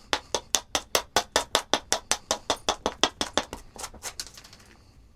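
A knapping hammer striking a rock in a fast, even run of light blows, about five or six a second, knocking off the last of the rock's outer rind. The knocks thin out and stop about four seconds in.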